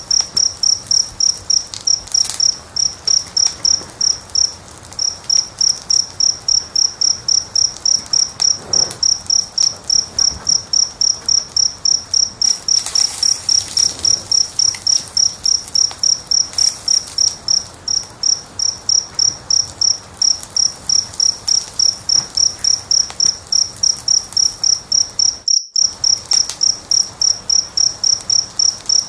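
A cricket chirping steadily, about three chirps a second, over the scattered snaps and crackles of a wood fire. All sound cuts out for an instant about 25 seconds in.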